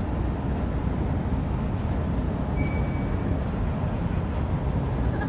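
Steady low rumble of outdoor background noise, with a brief faint high tone about two and a half seconds in.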